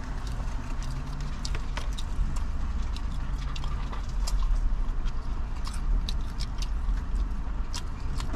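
Someone biting and chewing fried chicken: many scattered crisp clicks and crunches over a steady low rumble.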